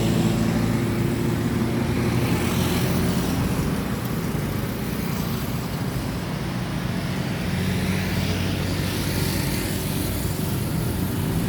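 Road traffic: vehicle engines running close by with a steady hum over the noise of passing traffic.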